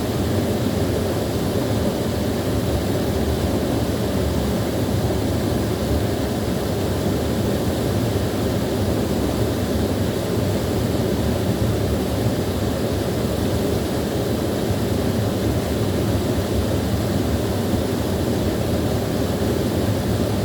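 Small waterfall splashing steadily: a continuous, even rush of falling water, full in the low and low-middle range, with no breaks.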